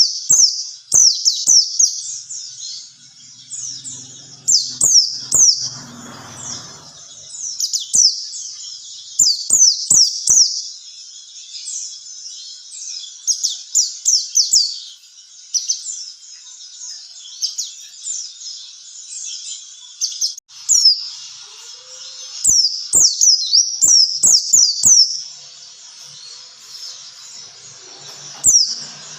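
White-eye (pleci, Zosterops) song: rapid runs of high, quick chirps in bursts with brief lulls, over a few sharp clicks.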